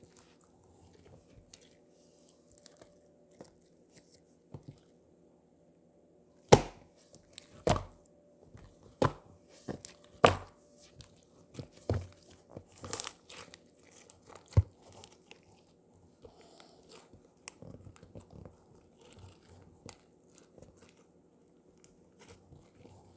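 Slime being squeezed and poked close to the microphone, making sharp pops and crunchy clicks that cluster in the middle, with softer scattered clicks either side.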